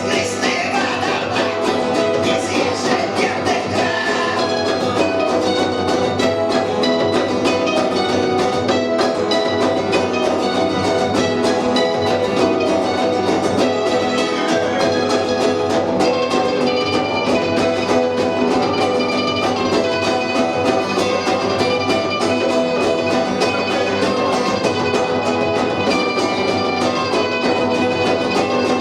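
Punk rock band playing a song live, loud and steady throughout.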